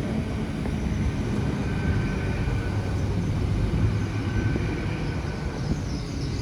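Diesel train passing, a steady heavy rumble with faint whining tones above it and some higher-pitched sound coming in near the end.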